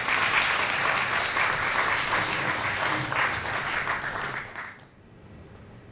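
Audience applauding, which dies away about three-quarters of the way through.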